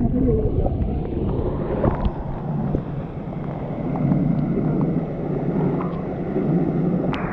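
Steady rush of falling water, with wind rumbling on the microphone.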